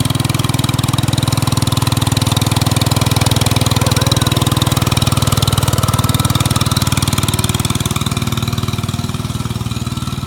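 Engine of a 1967 Case 155 garden tractor running steadily, growing slightly quieter near the end.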